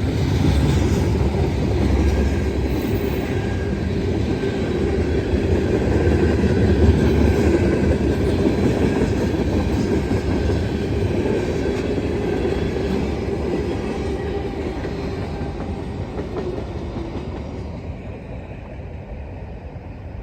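CSX manifest freight train rolling past, its cars' steel wheels running on the rails. It fades steadily over the last several seconds.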